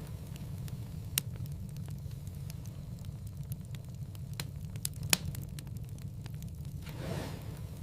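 Wood fire crackling in a fireplace: a steady low rumble of burning with scattered small ticks, two sharp pops about a second in and about five seconds in, and a soft rush of sound near the end.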